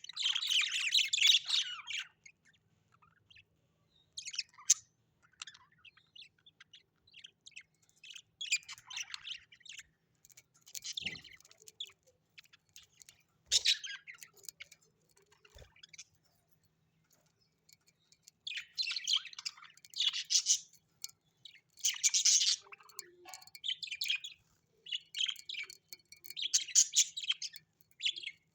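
Small parrots chirping and chattering in bursts of quick, high notes, with short quiet gaps between the bursts.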